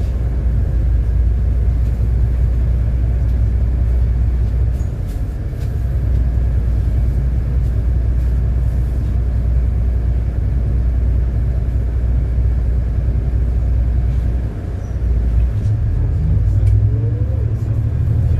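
City bus engine and road noise, a steady low drone as the bus drives along. About fifteen seconds in the sound dips briefly, then the low drone settles at a higher pitch.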